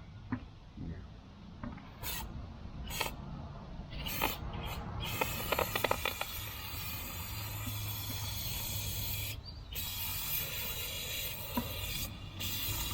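Solvent cleaner sprayed onto a tractor's hydraulic pickup screen from the inside out to wash dirt loose: a few sharp clicks, then from about five seconds in a long hiss of spray, broken twice by short pauses.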